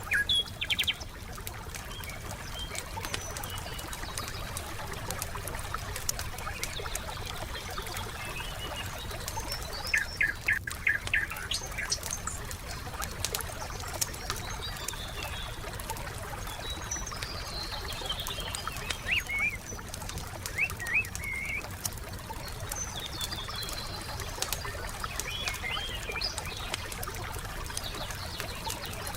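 Campfire crackling with many small pops, under songbirds chirping and giving short trills now and then, with a quick trill about ten seconds in.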